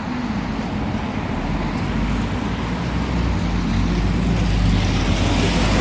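Scania OmniCity bus's diesel engine running under way, a steady low drone mixed with road noise, growing a little louder about four seconds in.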